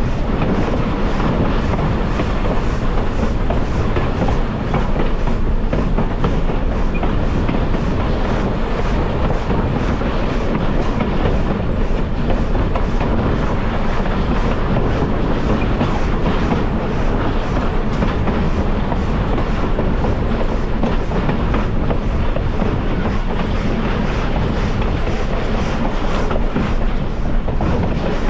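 Railroad car rolling along the track at steady speed: a continuous rumble with wheels clicking over the rail joints.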